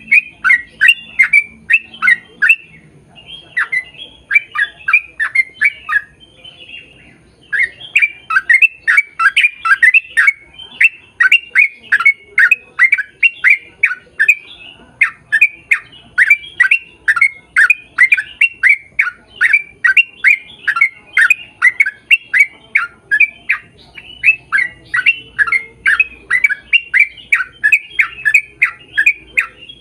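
A bird calling over and over in short, sharp notes, several a second, each dropping in pitch. The calls break off briefly twice in the first several seconds, then run on without a pause.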